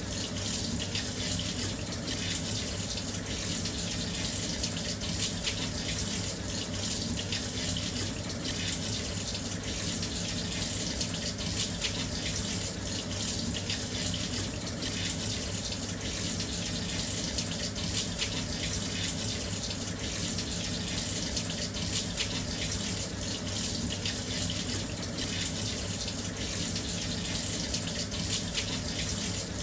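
Washing machine filling with water: a steady, continuous rush of water pouring into the drum, with a low steady hum underneath.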